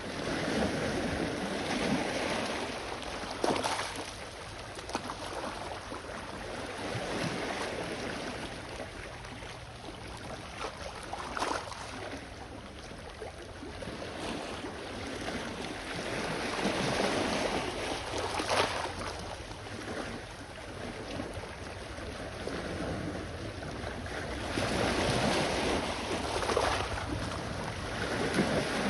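Small sea waves washing onto the shore, the surf swelling and falling back every several seconds, with a brief sharper splash at a few of the crests. A low wind rumble on the microphone runs underneath.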